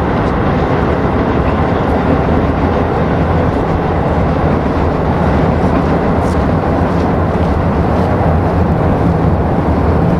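Wind buffeting the microphone outdoors: a steady, loud rumbling noise.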